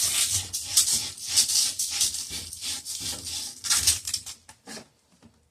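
Emery cloth scrubbing a copper pipe in quick back-and-forth strokes, cleaning the metal bright for sweating a joint. The strokes stop a little before the end.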